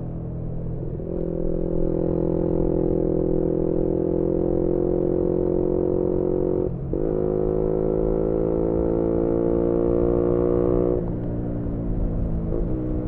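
Yamaha MT-125 single-cylinder engine through a GPR aftermarket exhaust, heard onboard while riding. The throttle opens about a second in and the engine pulls with slowly rising revs. A quick upshift comes about halfway through, then the throttle rolls off near the end.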